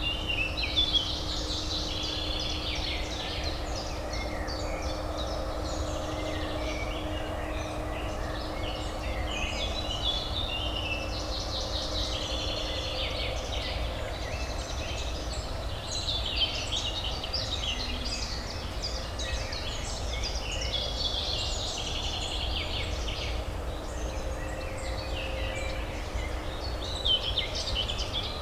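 Many songbirds chirping and twittering continuously over a steady, low urban hum.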